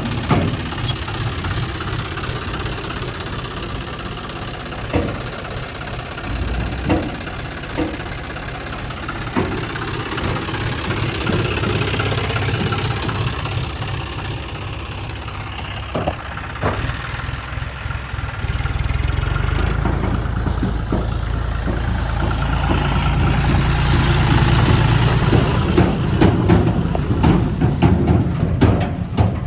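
Tractor diesel engine running, with scattered sharp knocks. It grows louder and heavier about two-thirds of the way through.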